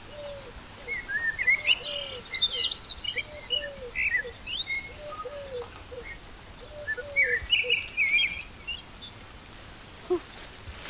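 Forest birds calling: rapid high chirps and trills in two bouts, over a lower call repeating in pairs.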